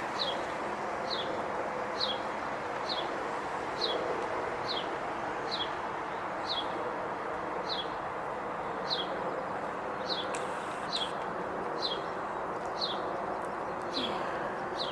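A small bird repeating a short, high, downslurred chip about once a second, steady and even, over a constant background hiss.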